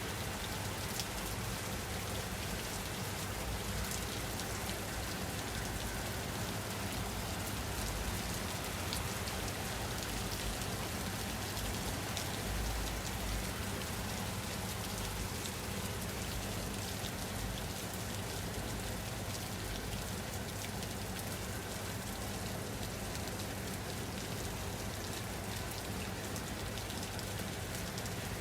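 Steady rain falling: an even hiss with fine scattered patter of drops.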